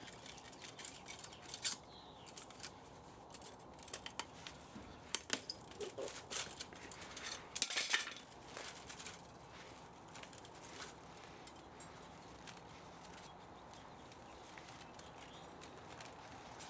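Small metal clinks, clicks and knocks, irregular and close together, from pieces of a scrapped electric motor and the tools being handled. They are busiest about eight seconds in and thin out to a few faint ticks over the last several seconds.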